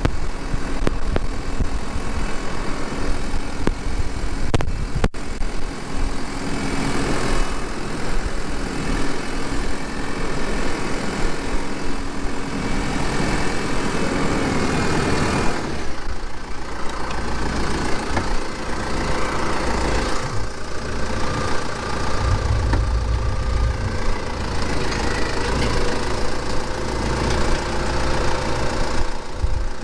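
An engine running steadily, with its low rumble getting stronger for a couple of seconds a little past the middle.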